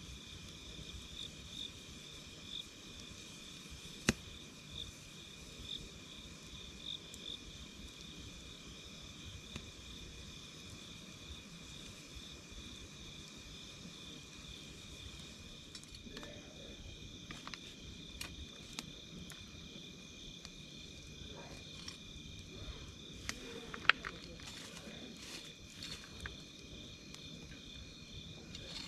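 Insects chirping in a steady high pulsing trill over a quietly crackling wood campfire. The fire gives occasional sharp pops, more frequent in the second half, with the loudest single pop near the end.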